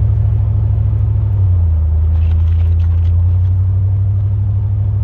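Steady low drone of a pickup truck's engine and road noise, heard from inside the cab while driving. The drone deepens slightly about a second and a half in.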